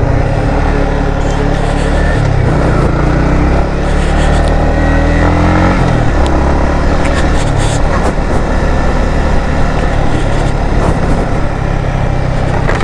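Yamaha MT-15's 155 cc single-cylinder engine running as the bike is ridden, its note rising and falling with the throttle over a heavy rush of noise.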